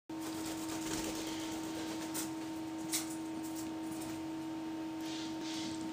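Steady electrical hum with a few faint clicks and a brief hiss.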